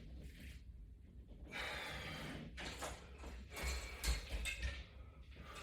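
A person breathing hard, with a long hissing exhale, while doing squats with a resistance-band bar on the shoulders. A few light knocks and thumps follow about two-thirds of the way in.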